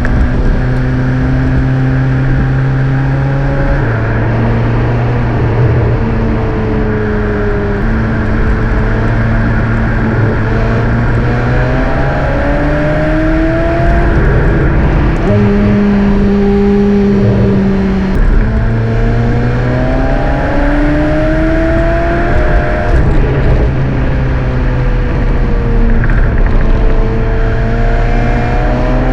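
McLaren 750S twin-turbo V8 engine running as the car is driven. Its pitch holds steady for stretches, climbs several times under acceleration, and drops suddenly at gear changes.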